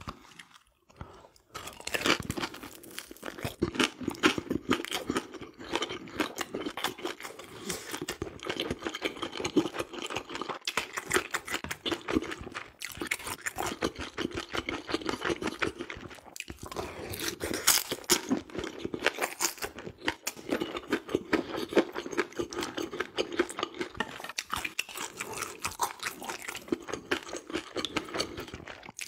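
Close-miked chewing of a crispy pan-fried dumpling: an irregular run of crackly crunches and wet mouth sounds, starting about a second and a half in, with a louder spell of crunching past the middle.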